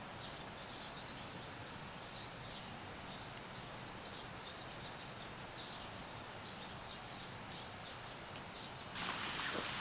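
Steady rushing of a flowing creek, with faint short high chirps scattered over it. About nine seconds in, the rushing turns suddenly louder and brighter.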